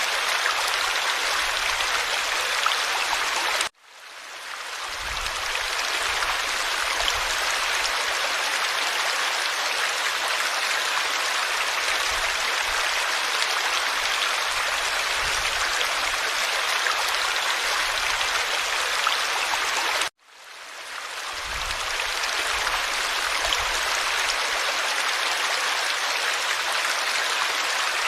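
Forest stream flowing in a steady, even babble. The sound cuts out abruptly twice, about four seconds in and about twenty seconds in, each time fading back up over a couple of seconds.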